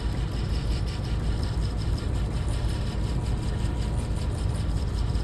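Motorised shear-sharpening machine running with a steady low hum as its hone spins, with faint scraping texture over the top.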